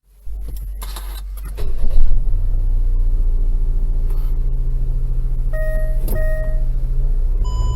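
Daihatsu Wake's three-cylinder engine cranking, catching with a brief rise in revs, then idling steadily, with freshly replaced spark plugs. Short electronic beeps sound twice near the end.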